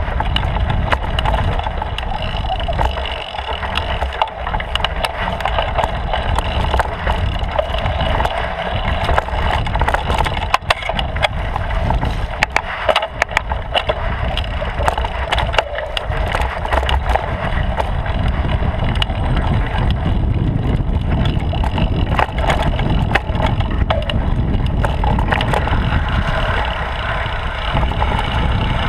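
Bicycle riding over a trail, heard from a camera mounted on the bike's frame: a steady rumble of tyres on the ground, thick with rapid sharp rattles and clicks from bumps.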